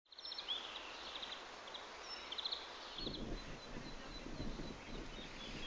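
Small birds chirping and trilling outdoors in short, repeated high calls over a faint hiss; a low rumble joins about three seconds in.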